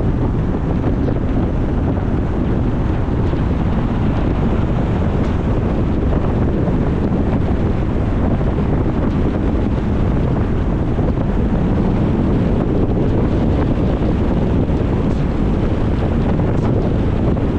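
Steady wind rushing over the microphone of a camera on a moving car, with low road noise underneath.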